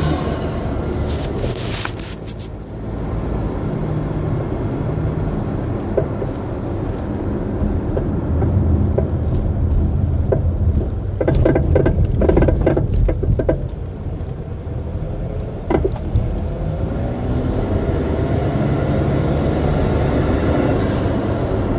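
Road and tyre rumble inside a moving 2008 Acura RDX, with sharp suspension knocks as it rides over bumps: a quick run of knocks about halfway through and a single hard knock a few seconds later. The owner thinks the knock comes from the front end.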